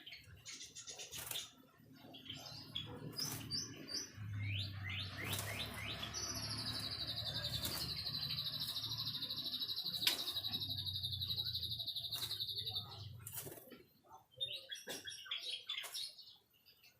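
White-rumped shama singing: short chirps and quick upward-sweeping notes, then a long buzzing trill held for about seven seconds, with scattered sharp clicks.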